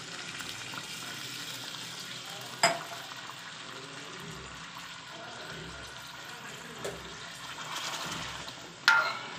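Steady sizzling of potatoes in masala and oil in an aluminium pot, with a glass of water just poured into the hot oil. Two sharp metallic clanks, about two and a half seconds in and near the end, with a lighter knock between them; the last comes as a metal ladle stirs the pot.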